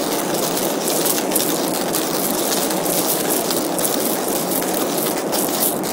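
Hario hand coffee grinder being cranked, its burrs crushing whole coffee beans in a continuous gritty crunch, over the steady noise of an airliner cabin.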